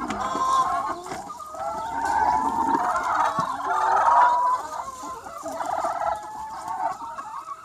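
Large free-range flock of chickens, many hens clucking and calling over one another without a break.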